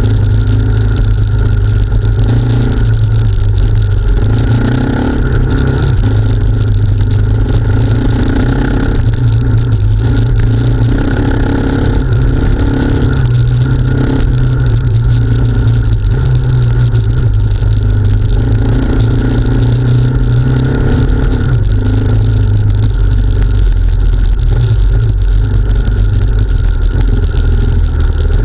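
Off-road motorcycle engine running continuously as the bike rides over a rough dirt trail, the engine note rising and falling with the throttle.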